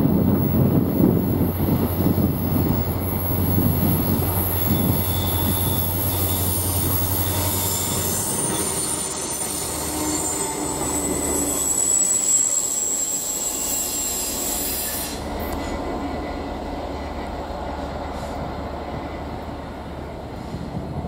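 Norfolk Southern freight train rolling by: a low diesel locomotive drone for the first several seconds, then steel wheels squealing against the rails on the tight curve, with thin high squealing tones from about eight seconds in that stop abruptly near fifteen seconds, over a steady rail rumble.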